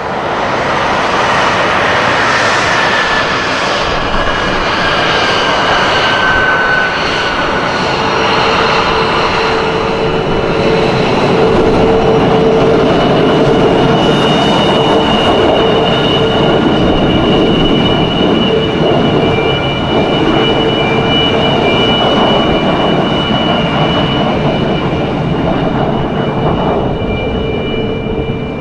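F-22 Raptor's jet engines running loud in flight: a continuous rush of noise with steady high whines, and one whine falling in pitch over the first several seconds as the jet passes.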